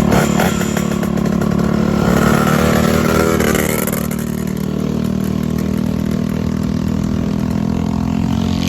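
Straight-piped moped engine running loud with no muffler, a steady drone that starts abruptly, its pitch wavering between about two and four seconds in.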